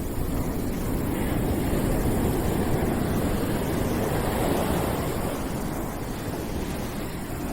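Continuous deep rushing noise, like surf or wind, that swells gently and eases again.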